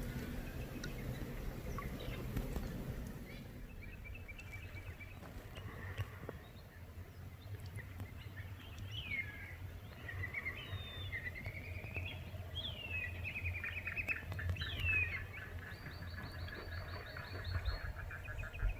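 Birds singing along the riverbank. A short run of repeated notes comes a few seconds in, then swooping whistles and rapid trills from about nine seconds in, with a low rumble underneath.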